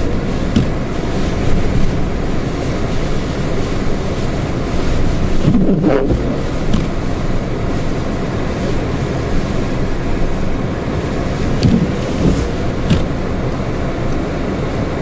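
Blizzard wind blowing hard and buffeting the microphone, a steady low rumble with a few brief knocks.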